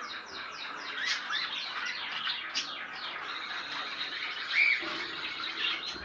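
A room full of cage birds chirping and squawking together in dense, overlapping chatter, with one louder call about four and a half seconds in.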